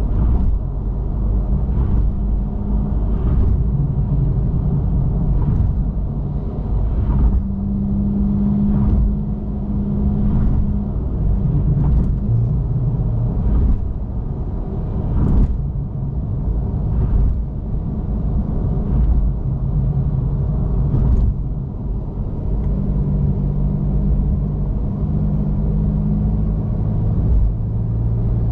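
Porsche 911 Carrera S flat-six with the factory sports exhaust, cruising at a steady pace: a low, muffled rumble whose engine note shifts up and down a few times. A light knock comes every second or two.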